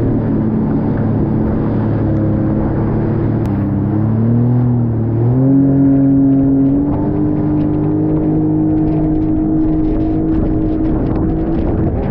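Jet ski engine running at speed, its pitch stepping up twice as the throttle opens, then holding steady.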